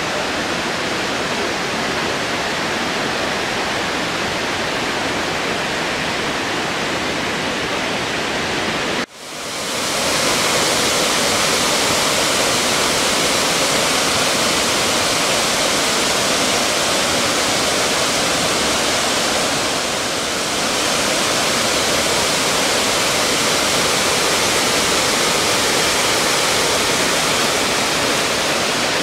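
Loud, steady rush of falling water from the Dzhuryn waterfall on the Dzhuryn river. It cuts out abruptly about nine seconds in and returns louder and brighter.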